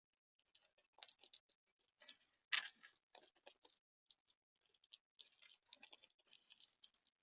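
Faint, irregular clicking and tapping of animals feeding at a bird feeder, with one louder click about two and a half seconds in.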